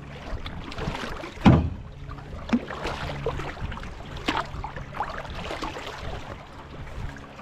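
Canoe paddles dipping and pulling through river water, a few irregular splashing strokes over steady water noise, the loudest about a second and a half in.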